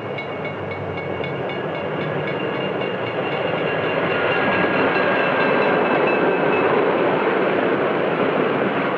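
Diesel-hauled passenger train running on the rails: a steady rumble and rattle of wheels that swells to its loudest about halfway through and then eases off. A few faint high steady tones fade out partway through.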